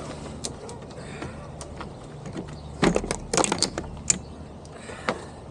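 Scattered clicks and knocks of tools and metal parts being handled, with a quick cluster of clattering about three seconds in and a single knock near the end.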